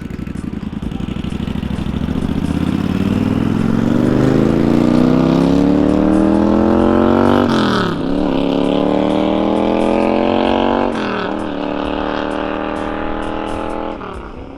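Motorcycle engine accelerating through the gears: the revs climb steadily, drop at an upshift about seven and a half seconds in, climb again and drop at a second shift about eleven seconds in, then hold nearly steady before easing off near the end.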